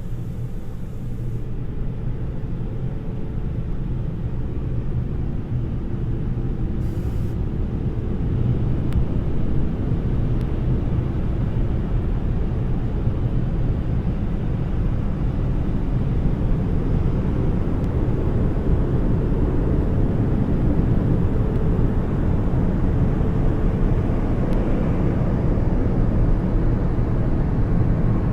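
Automatic car wash machine working over a kei car, heard from inside the closed cabin: a steady, low, rumbling noise that slowly grows louder.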